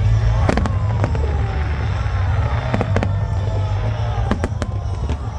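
Aerial fireworks bursting in a series of sharp bangs, clustered near the start, around the middle and toward the end, over music and a steady low rumble.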